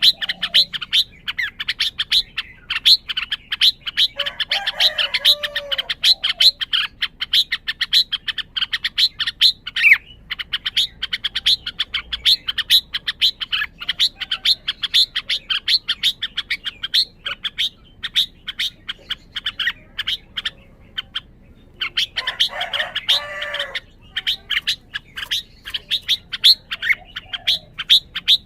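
Red-whiskered bulbul calling: a fast, unbroken run of sharp chirps, several a second. A short warbled song phrase breaks in about four seconds in and again about twenty-two seconds in.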